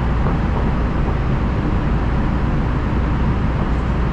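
LA Metro rail car running, a steady, even rumble and rolling noise with a strong low end.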